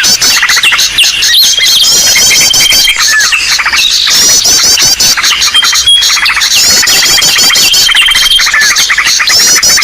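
A bird-lure recording ('suara pikat ribut'): a loud, dense chorus of many small birds chirping, trilling and calling at once, with a recurring high, level whistle and the same chirp phrases coming back every couple of seconds.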